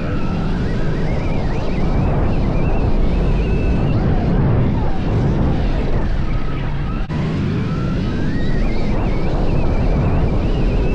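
Stark VARG electric dirt bike being ridden hard around a motocross track: a strong rush of wind over the microphone, with the electric motor's whine rising and falling as the rider opens and closes the throttle.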